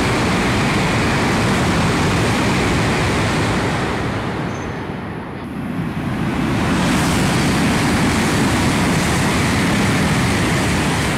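Shinkansen bullet trains passing through the station at high speed without stopping: a loud, steady rushing of air and wheels. One pass fills the first four seconds, and after a short lull a second train rushes past.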